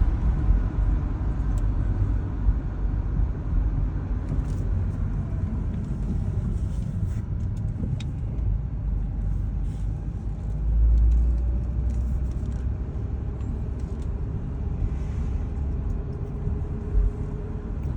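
A 2007 BMW 328i wagon on the move, heard from inside: a steady low rumble of road and inline-six engine noise, swelling briefly about eleven seconds in.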